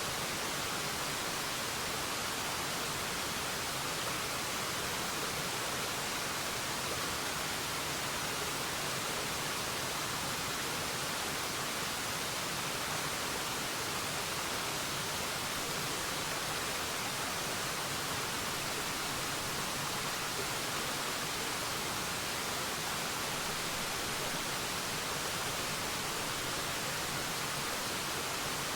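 Waterfall rushing steadily: an even, hissy roar of falling water, bright rather than deep, with no changes.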